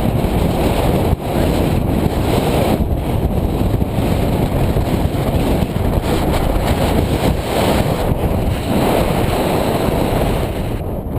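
Strong wind buffeting the microphone: a loud, continuous low rumble that rises and falls a little with the gusts.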